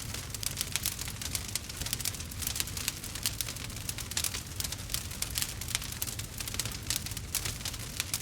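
Burning wood fire crackling, with a dense run of small sharp pops over a steady low rumble.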